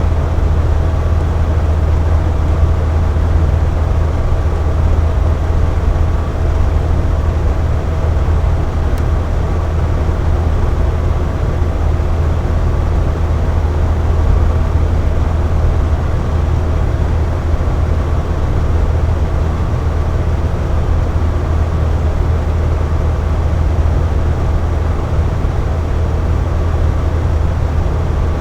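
Box fan running steadily: an even, unbroken airy drone, strongest in a low hum, with faint steady tones riding above it.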